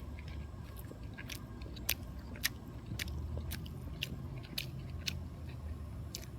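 A person biting and chewing a sandwich, with irregular sharp mouth clicks. A low steady hum runs underneath.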